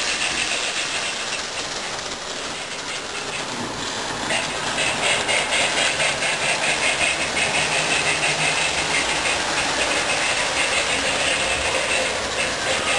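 Marx tinplate electric toy train running on O-27 track: a steady motor whir with a rapid, even clatter from the wheels on the rails. It grows louder about four seconds in as the train comes nearer.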